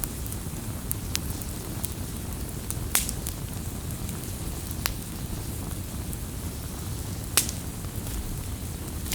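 Wood fire burning: a steady low rush with scattered sharp crackles and pops from the burning wood, the loudest pops about three and seven seconds in.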